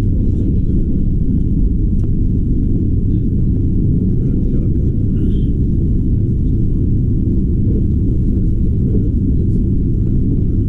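Steady low rumble of a moving train, running evenly with no change in level.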